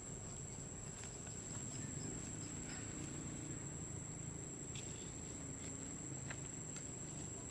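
Steady high-pitched drone of insects, with a few faint scattered clicks and a low background murmur.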